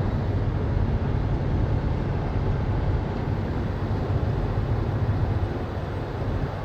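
Heavy tow truck's diesel engine running steadily, a low drone.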